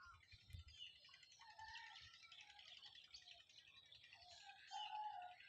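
Faint birdsong: several small birds chirping and trilling at once, with a louder, lower held call about a second before the end.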